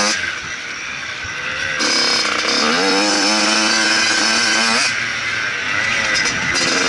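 Motocross bike engine revving up and down as the rider works the throttle. It falls off at the start, climbs steadily in pitch from about two seconds in, eases off about five seconds in, and picks up again near the end.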